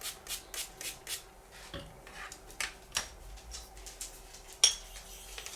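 Straight razor being stroked on a Welsh slate hone: a quick run of short scraping strokes. These are followed by a few sharp metallic clicks and clinks, the loudest near the end.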